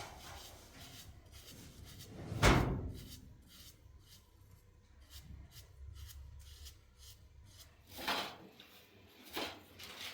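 Handling noises: rubbing and small clicks, with one loud thump about two and a half seconds in and two softer knocks near the end.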